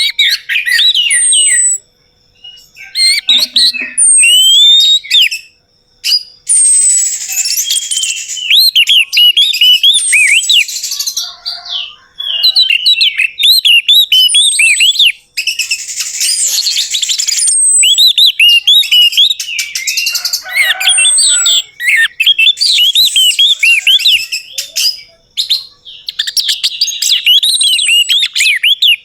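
Orange-headed thrush (anis merah) singing: long, fast phrases of varied chirps and downslurred whistles, broken by brief pauses.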